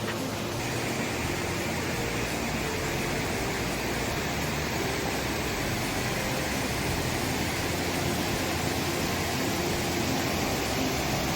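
Steady rushing noise that fills out in its upper range under a second in and grows slightly louder.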